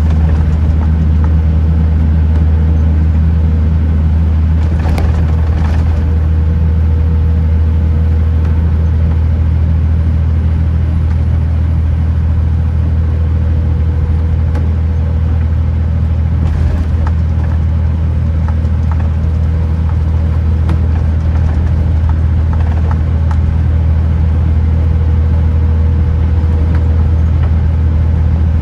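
Kenworth T909 truck driving along, its engine and drivetrain holding a steady low drone with a faint constant whine above it. A few brief clicks come about 5 and 17 seconds in.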